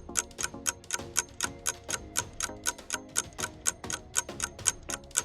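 Clock-ticking sound effect of a quiz countdown timer: quick, even ticks, about four a second, with faint pitched tones beneath.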